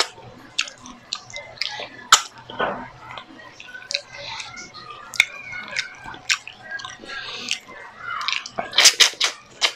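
A person chewing grilled milkfish eaten by hand, with many short wet lip smacks and mouth clicks; a quick cluster of loud smacks near the end.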